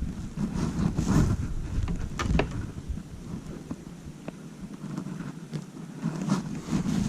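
Wind buffeting the microphone in gusts as a low rumble, easing for a couple of seconds in the middle. A few short knocks come through it.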